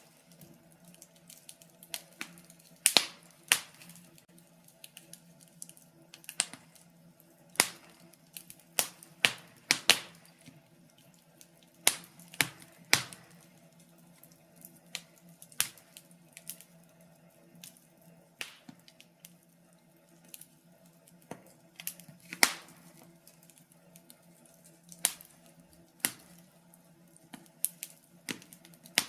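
Fire in a fireplace crackling, with irregular sharp pops and snaps of varying loudness over a faint steady hum.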